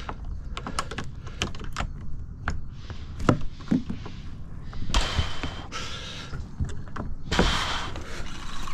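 Irregular knocks and thunks, as of gear and fittings being handled in a small boat, with two short rushes of noise in the second half.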